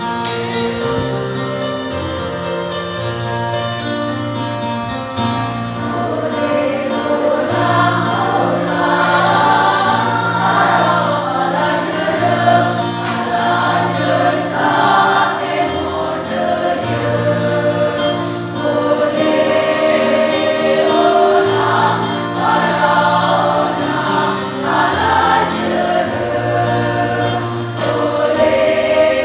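Secondary-school choir singing a piece in parts over held low accompaniment notes. The voices swell and grow fuller about six seconds in.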